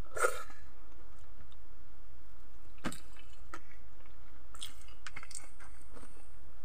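A man chewing a mouthful of soft boiled vegetables, with a wet smack as the food goes in near the start and scattered small mouth clicks and smacks after.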